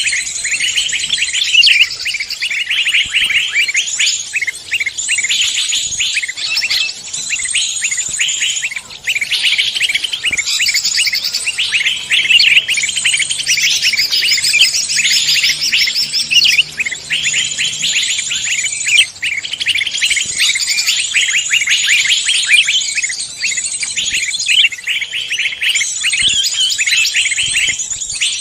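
A dense chorus of many small songbirds chirping, twittering and trilling at once, high-pitched and without pause: a songbird lure recording.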